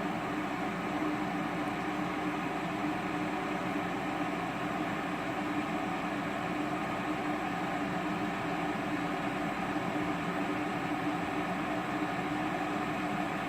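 Electric tea kettle at a rolling boil: the steady rushing, bubbling noise of the water boiling hard inside.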